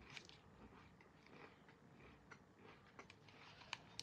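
Faint close-up chewing and crunching of a bite of crisp-rice, cornflake and oat cereal bar coated in chocolate, with a few sharp clicks in the second half.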